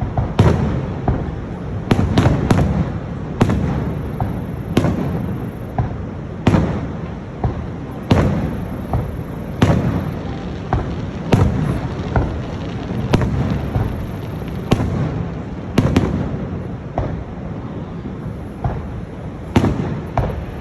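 Aerial fireworks shells bursting: a steady run of sharp bangs at irregular intervals, often a second or less apart, each trailing off in a rumbling echo over a continuous low rumble.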